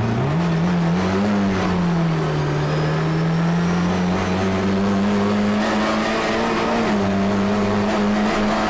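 Rally car's engine heard from inside the cabin, running hard at high revs. Its pitch jumps up at the start, sags a little, then climbs slowly and dips briefly about seven seconds in.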